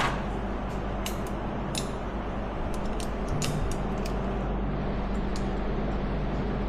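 Scattered light clicks and taps of parts and tools being handled during hand work on an ATV, over a steady low mechanical hum.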